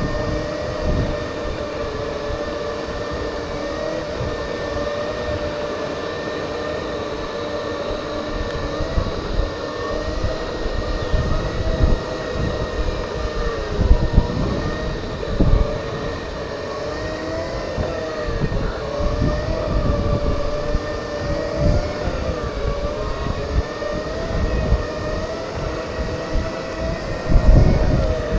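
Segway electric drive motors whining steadily as it rides along, the pitch dipping briefly when it slows, with wind buffeting the microphone.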